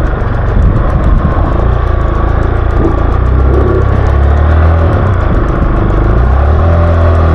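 Motorcycle engine running loud and close, its pitch shifting about five seconds in.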